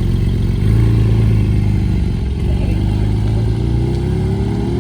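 Car engine running close by with a steady low drone, then accelerating with a rising pitch near the end.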